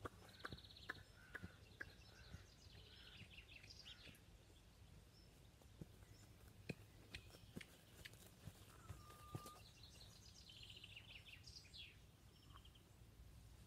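Faint open-air ambience with small birds calling and trilling in bursts, one short steady whistle about two-thirds through, and scattered faint clicks throughout.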